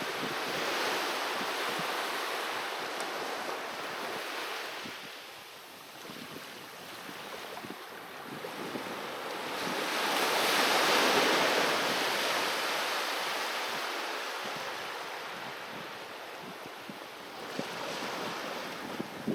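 Sea waves breaking and washing onto the shore in slow surges. The loudest surge comes around ten to twelve seconds in, with a quieter lull before it and another swell near the end.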